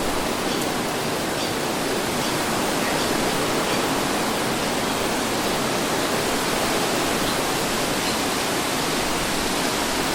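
Steady rushing wind noise with no gusts or changes in level, a breeze sound effect.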